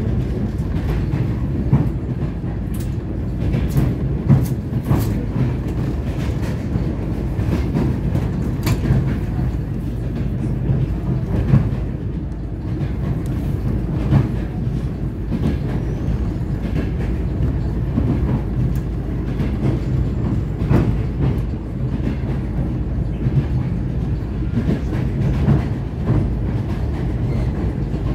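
Steady low rumble of a moving vehicle, with scattered clicks and knocks at uneven intervals.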